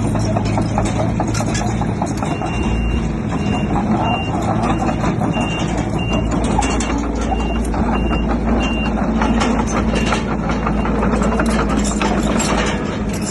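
Diesel heavy equipment running with clanking and knocking. A reversing alarm beeps in a steady series from about two seconds in until about nine seconds in.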